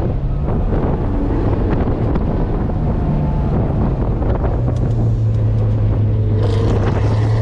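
A classic Porsche's engine heard from inside the cabin, running at low, fairly steady revs under wind and road noise. The engine note grows stronger about five seconds in.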